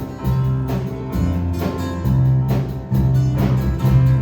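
Live worship band playing an instrumental passage between sung lines, with sustained bass notes and a steady beat.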